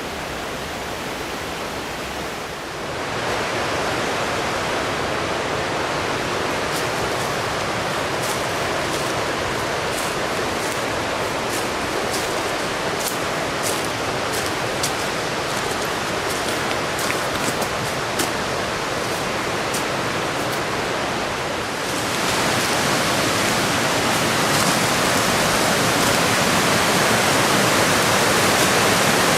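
Rushing water of a mountain stream and waterfall, a steady roar that grows louder about three seconds in and again about two-thirds of the way through. A scatter of faint sharp clicks sits over it in the middle stretch.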